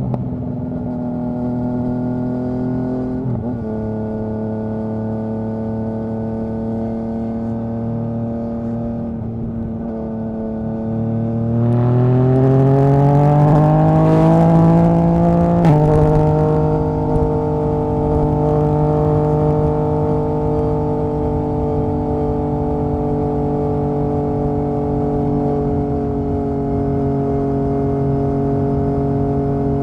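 Yamaha MT-09's three-cylinder engine and exhaust under way. It holds a steady note, then revs up louder for about four seconds and drops sharply in pitch at an upshift around the middle, then settles back to steady cruising.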